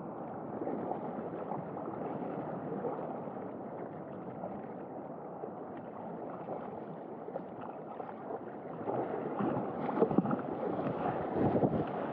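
Surf water rushing around a waveski, with wind on the microphone. It gets louder and choppier with splashing in the last few seconds.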